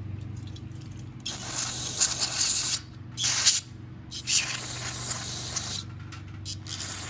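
Aerosol brake cleaner sprayed at small carburettor parts in three hissing bursts, the middle one short, to flush out dirt and corrosion.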